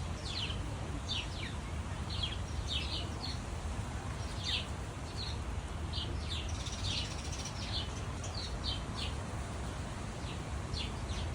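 Small birds chirping, short high downward-sliding chirps coming one after another throughout, over a steady low rumble of wind.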